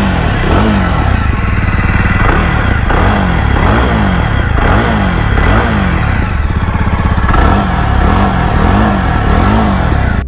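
Jawa Perak's 334cc liquid-cooled single-cylinder engine revved in quick repeated throttle blips, the pitch rising and falling about every half second, with a brief pause a little past the middle.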